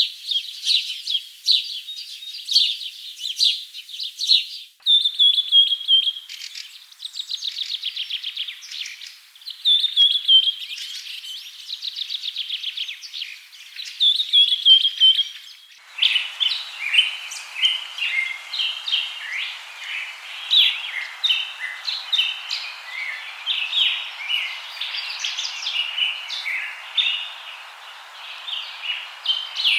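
Songbirds chirping and singing, with rapid trilled phrases that drop in pitch repeating for several seconds. About halfway through the sound changes abruptly to a busier chorus of many birds' chirps over a steady hiss.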